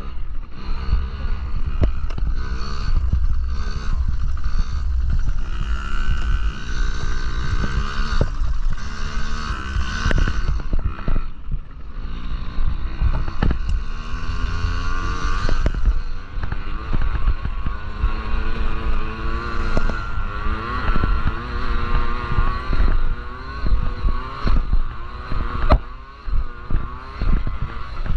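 Yamaha PW50 minibikes' small two-stroke engines revving up and down repeatedly as they race, with strong low rumble from wind on the microphone.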